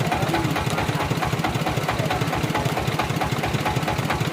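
Sawmill engine running steadily with a fast, even firing pulse.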